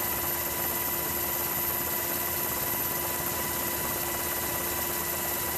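Steady helicopter cabin noise, an even rush with a constant whine running through it.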